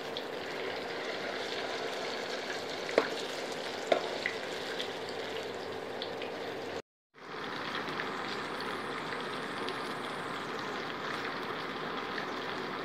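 Batter-coated paneer cubes shallow-frying in hot oil in a pan, a steady sizzle. Two sharp clicks of a metal slotted spoon against the pan come about three and four seconds in. The sound cuts out for a moment about seven seconds in, then the sizzling resumes.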